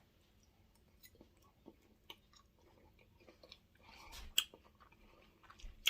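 A person chewing a mouthful of sautéed string beans and apples: faint, irregular crunching and mouth clicks, with a couple of louder clicks near the end.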